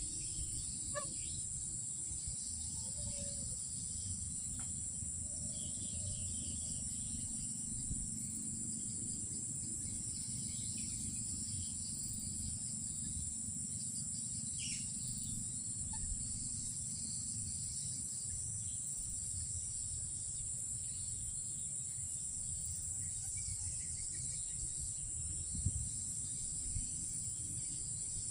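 Night insect chorus, crickets making a steady high-pitched drone, over a low rumble, with a few faint scattered chirps and clicks.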